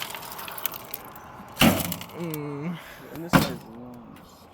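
Two sharp bangs from a battered microwave oven being handled, about a second and a half apart, with light clinking and rattling before them. Short vocal sounds follow each bang.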